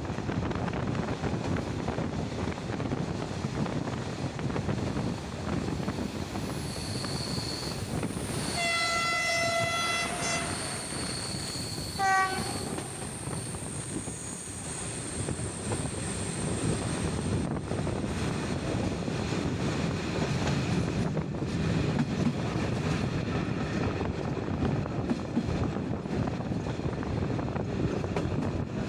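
Rumble of a diesel-hauled passenger train heard from a carriage window. About eight and a half seconds in, the locomotive's horn gives one long blast of about two seconds. A shorter blast follows a couple of seconds later, with a thin high wheel squeal around the same time.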